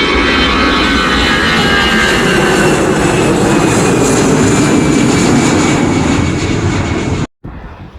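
Aircraft engines running loud and close, a heavy roar with high whining tones that slowly fall in pitch. The sound cuts off abruptly about seven seconds in, leaving a faint wind hiss.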